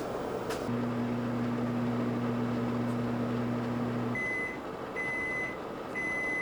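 Microwave oven: a click, then its steady electrical hum for about three and a half seconds, stopping abruptly and followed by three long beeps signalling the end of the heating cycle.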